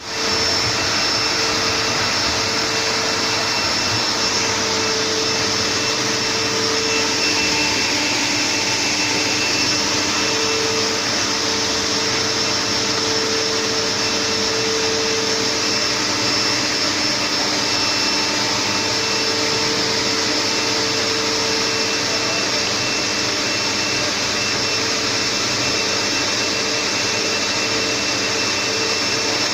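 Motorised chimney-sweeping equipment running steadily while a fireplace flue is cleaned with rotary brushes: a constant rushing motor noise with a steady whine.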